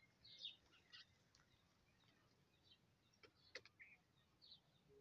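Near silence with faint, scattered chirps of small birds in the background, and a couple of faint clicks about three and a half seconds in.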